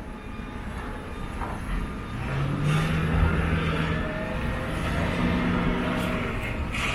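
An engine running with a steady low drone, growing louder and more tonal about two seconds in.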